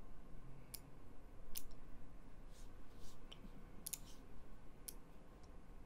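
Computer mouse clicking: about eight separate, irregularly spaced clicks, with a quick double-click about four seconds in.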